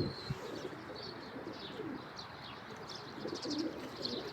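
Domestic pigeons cooing softly, with scattered short, high chirps of small birds.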